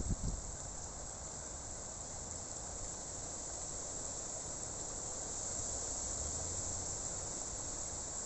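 Steady rushing of water at a small waterfall, with a steady high-pitched insect chorus over it.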